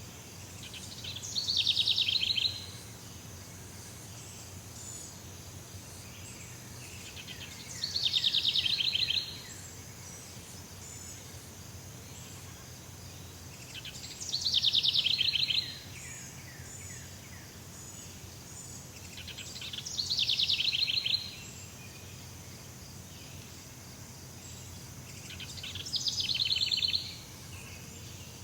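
Jungle ambience: an animal call repeated five times, about every six seconds. Each call swells for about a second and a half into a fast, trilling run of strokes, then stops abruptly. A steady high insect-like hiss runs beneath it.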